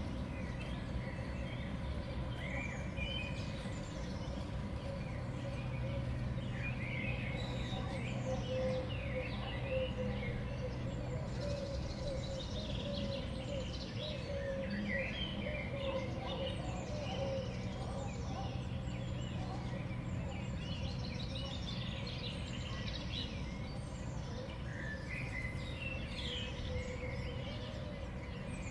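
Small songbirds at a winter feeder, many short chirps and call notes overlapping throughout, over a steady low background hum.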